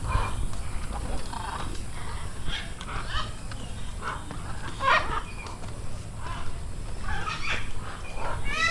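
Assorted birds giving short, scattered calls, with one louder call about five seconds in, over a steady low rumble.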